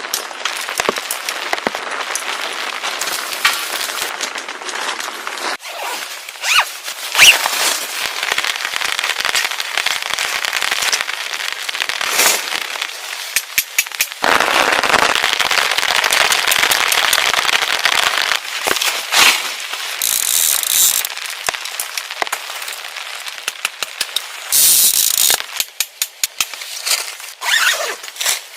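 Wood campfire crackling and popping, with many sharp snaps over a steady hiss; about halfway through a louder, steadier hiss runs for several seconds.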